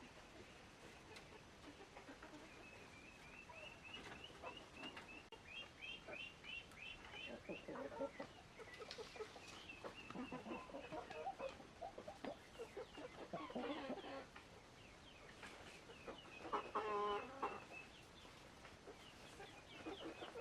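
Chickens clucking and calling, with a quick run of high chirps over the first several seconds and a louder call near the end.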